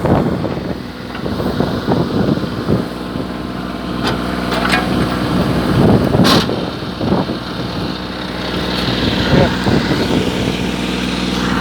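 Mini tractor backhoe's engine running steadily, with a few sharp knocks around the middle, the loudest about six seconds in.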